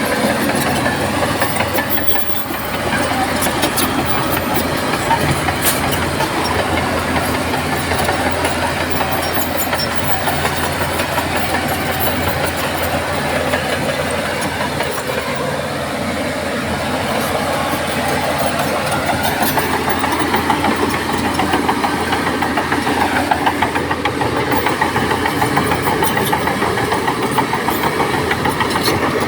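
Bulldozer diesel engine running steadily, with scattered short metallic clanks.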